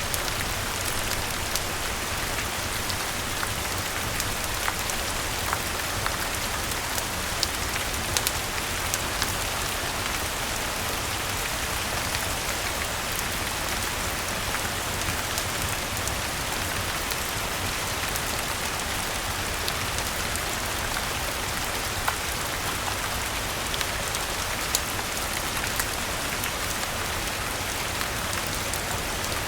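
Steady rain falling, a continuous even hiss with scattered sharp clicks.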